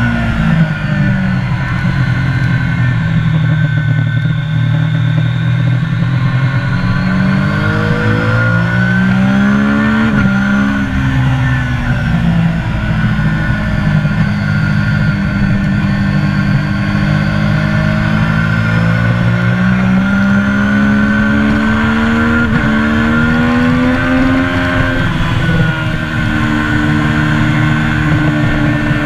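Triumph motorcycle engine at racing speed on a track lap, heard from onboard. It climbs in pitch through the gears with short breaks at upshifts, drops as the bike slows for a corner about a third of the way in, climbs again for a long stretch, and drops once more near the end.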